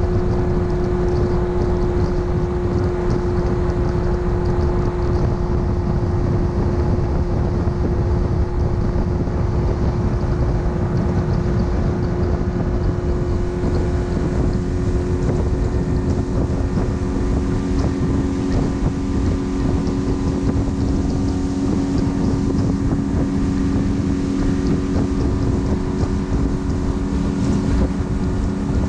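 Panga boat's outboard motor running at a steady speed while under way, with wind buffeting the microphone. About halfway through, a second, lower steady tone joins the engine note.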